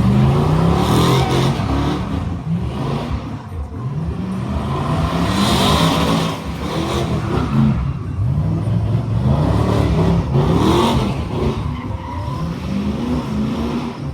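Truck engine revving hard again and again, the pitch climbing on each throttle stab, with the hiss of tires spinning in a burnout.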